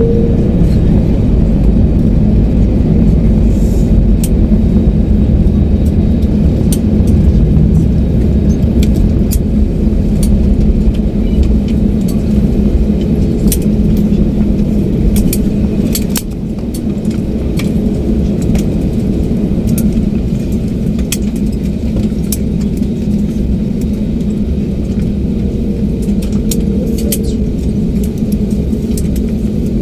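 Airliner cabin noise: a loud, steady low rumble with frequent sharp rattling clicks. The rumble eases a little about sixteen seconds in.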